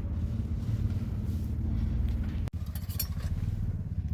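An engine running steadily, a low pulsing hum, with a brief dropout about two and a half seconds in.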